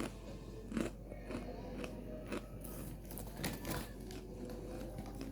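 Close-up eating sounds: chewing and crunching food, with a few sharp clicks scattered through.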